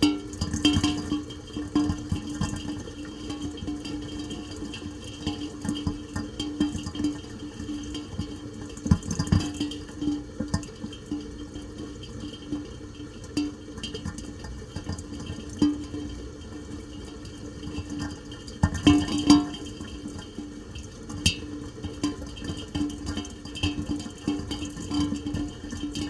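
Rain falling in an irregular patter of drops, with a steady low hum underneath and louder bursts of drops about nine seconds in and again near nineteen seconds.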